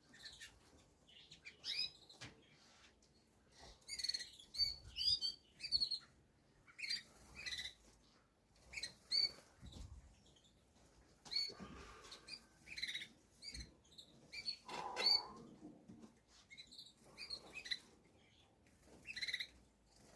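Small garden birds chirping and twittering in short, irregular bursts of high notes.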